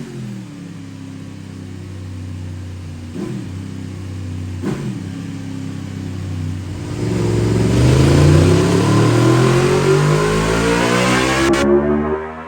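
Yamaha MT-10's crossplane inline four-cylinder engine through a Scorpion de-cat and silencer, revved while standing. The revs drop back to idle, it gets two quick throttle blips, then one long rev climbs steadily before falling away near the end.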